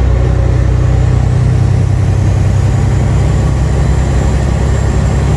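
Semi truck's diesel engine running steadily while hauling a load of wheat, a deep even drone, with a faint high whine rising slowly from about two seconds in.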